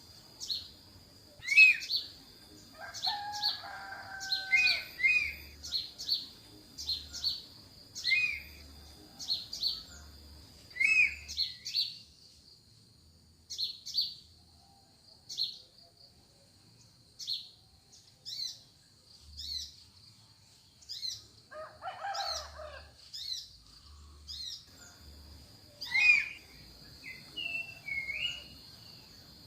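Wild forest birds calling: a short, high, falling chirp repeated over and over, with a lower call twice, and a thin steady high tone behind. The chirping thins out to a lull in the middle, then picks up again.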